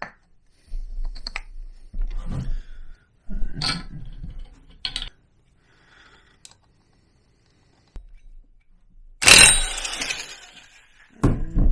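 Metal tools and scooter drive parts clicking and clattering as they are handled and fitted, with a pause, then one loud metallic clank that rings briefly about nine seconds in.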